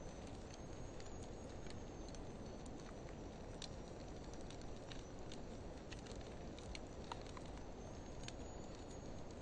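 Campfire of driftwood mixed with dry hardwood burning in a metal fire pit: a steady low rumble of flame with irregular sharp crackles and pops, slowed to half speed.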